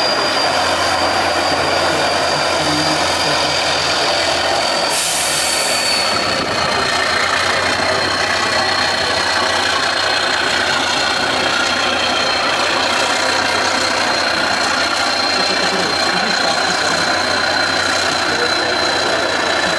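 Tatra 815 6x6 trial truck's diesel engine running steadily, with a thin high whistle drifting slowly lower in pitch. A short hiss of air about five seconds in.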